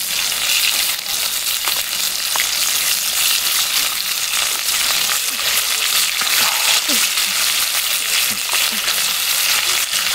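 Thick slices of pork belly frying in a cast-iron pan, a steady sizzle with a constant fine spitting of fat.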